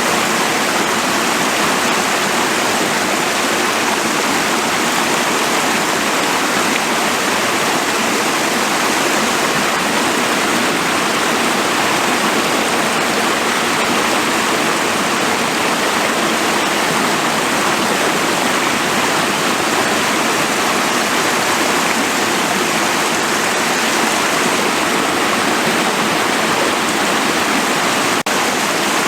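Forest stream rushing and splashing steadily, with a momentary break near the end.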